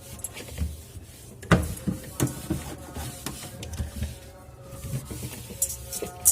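Irregular knocks, clicks and rubbing as plastic fridge parts are handled and wiped down with a wet cloth.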